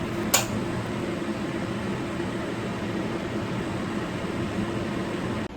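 A gas stove is clicked on, then its burner runs with a steady rushing noise. The noise cuts off abruptly near the end.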